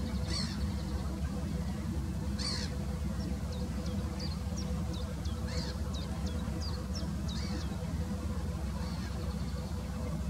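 Wild birds calling over a steady low rumble: a few short, harsh calls, and in the middle a quick run of brief high chirps, about three a second.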